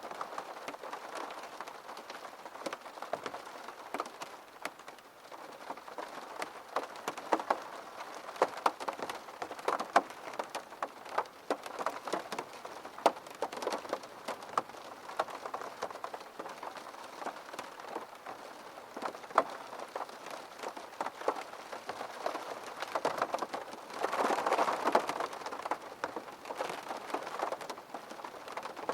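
Rain striking a window: a steady hiss of rain with many sharp, irregular drop ticks on the glass, and a brief louder rush of heavier rain near the end.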